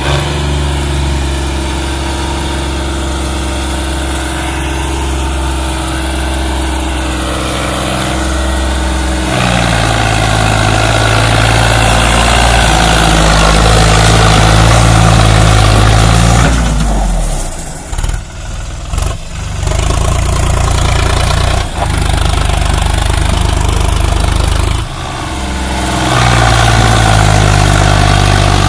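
Sonalika 745 tractor's diesel engine running, its revs stepping up about nine seconds in, dropping back around the middle with a few brief dips, then rising again near the end.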